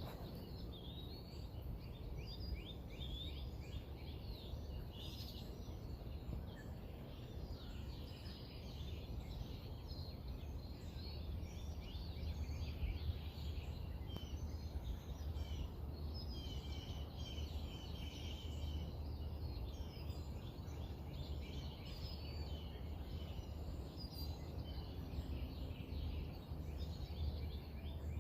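Several small songbirds chirping and trilling continually over a steady low rumble.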